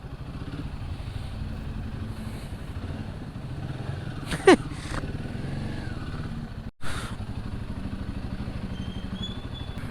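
Motorbike engine running steadily under way, a low even rumble. About four and a half seconds in there is one short, loud falling squeal, and the sound cuts out for an instant a little before seven seconds.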